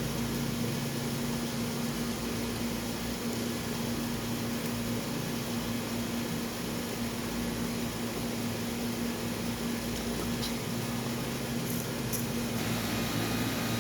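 Steady mechanical hum holding one constant low tone over an even hiss, unchanging throughout.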